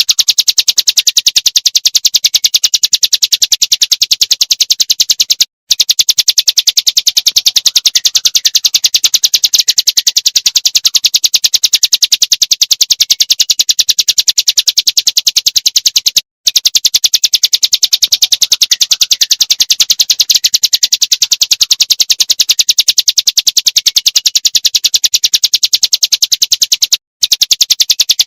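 A small songbird's rapid, rattling high-pitched trill: very fast notes repeated evenly without let-up, breaking off for a split second three times.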